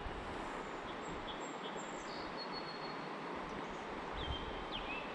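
Small birds calling with thin, high whistled notes, a few short pitch slides among them, over a steady outdoor background hiss.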